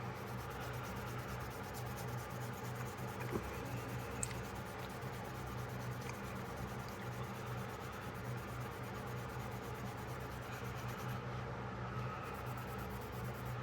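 Steady light rubbing and scratching on a pocketknife's blade as stubborn specks are worked at, over a low steady hum.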